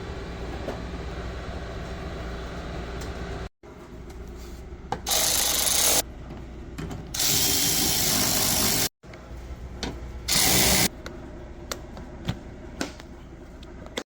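A power tool run in three short bursts, with small clicks and knocks of parts being handled between them, over a steady background hum.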